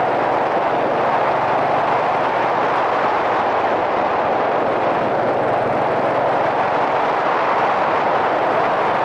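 Steady wind and riding noise rushing over a helmet-mounted camera on a moving Yamaha SRX400, with the motorcycle's single-cylinder engine running underneath at an even pace.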